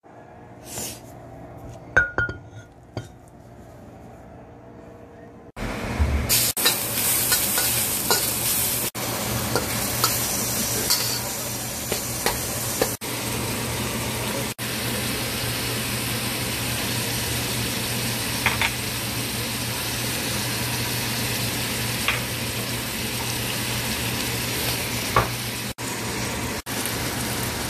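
A few light knocks and clinks of kitchen items at first. About five seconds in, ground meat starts sizzling much louder as it is stir-fried in a hot oiled pan. The steady sizzle is broken by a few brief cuts.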